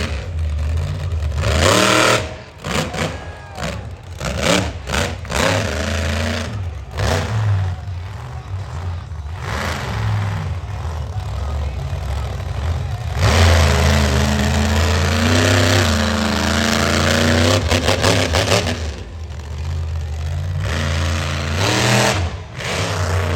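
Monster truck engine revving hard over and over, its pitch climbing and falling with each blip of the throttle, then held at high revs for several seconds past the middle.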